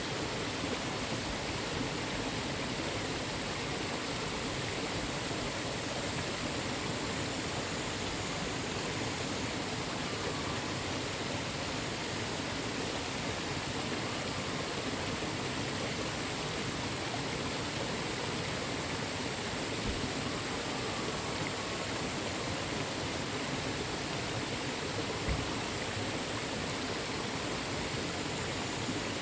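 A mountain stream rushing steadily over rocks.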